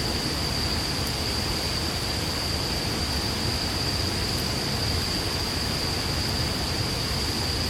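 Campfire burning: a steady rushing hiss with a couple of faint pops, over a thin, steady high-pitched tone.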